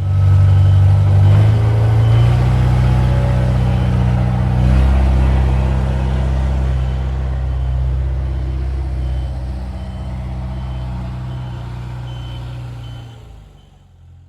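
Heavy vehicle's engine running steadily, with a faint reverse-warning beeper sounding in a regular series of short beeps; the engine fades out near the end.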